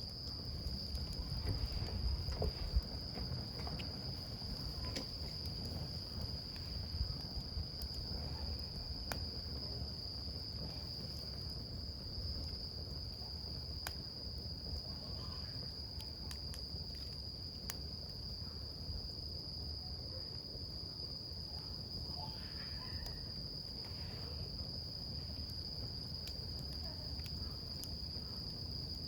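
A wood campfire crackling, with scattered sharp pops and a low rumble of flame, under a steady high-pitched insect chorus that goes on unbroken.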